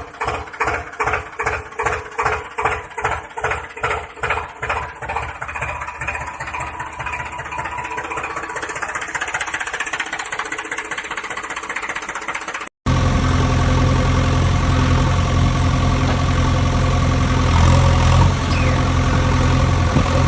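An engine chugging in an even rhythm of about two and a half beats a second that smooths into steady running. After a sudden cut, a louder, steady, deep engine drone takes over.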